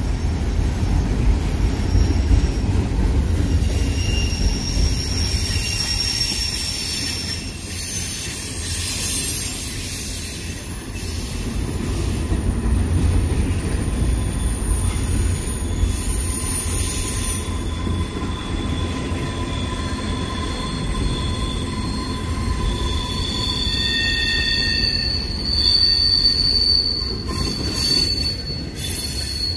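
Double-stack intermodal container train rolling past: a steady low rumble of wheels on the rails, with thin high-pitched wheel squeals at several pitches coming and going, strongest from about a third of the way in to near the end.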